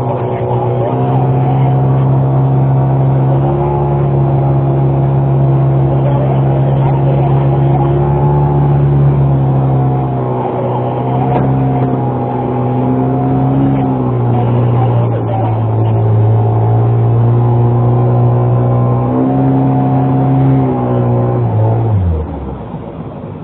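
A boat motor running steadily with a low, even drone. Its pitch drops for several seconds in the middle and comes back up, then falls away as it is throttled down near the end.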